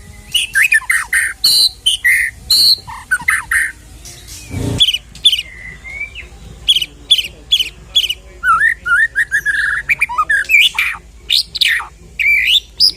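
White-rumped shama (murai batu) singing a fast, varied song of loud whistles, sharp chips, sweeping notes and a rapid trill, packed with mimicked phrases. A single dull thump sounds about halfway through.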